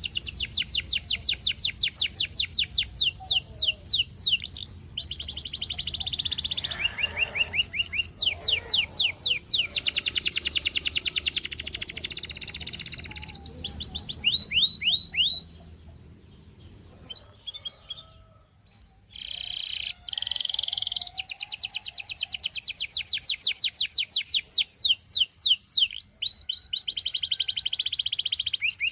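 Canary singing long rolling trills, runs of fast repeated high notes that change speed from phrase to phrase. The song breaks off for a few seconds about halfway through, with only a few faint notes, then starts again.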